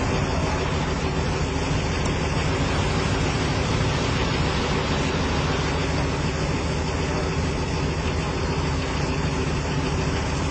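A vehicle engine idling steadily: a low, even hum under a constant hiss of noise.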